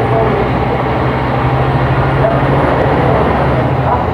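Scania K270 city bus engine running steadily with an automatic ZF gearbox, its low drone holding and then dropping away near the end.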